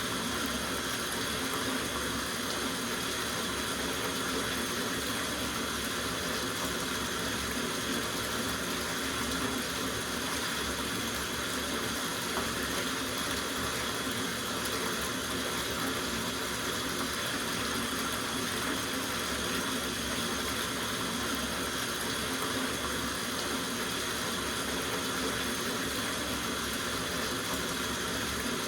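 Tap water running steadily into a soaking bathtub, a continuous even rush of falling water filling the tub.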